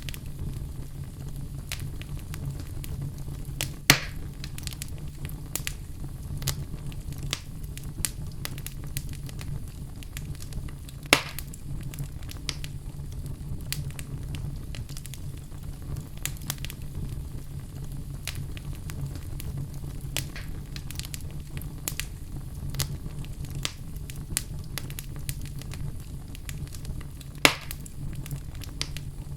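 Fire crackling steadily over a low rumble, with frequent small crackles and three sharper, louder pops.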